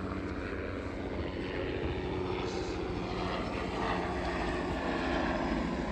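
A vehicle engine running at a steady speed: a continuous low drone with steady tones over a wash of running noise.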